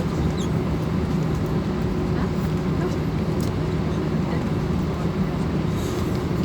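Airliner jet engines running steadily at low power: an even low rumble with a constant hum.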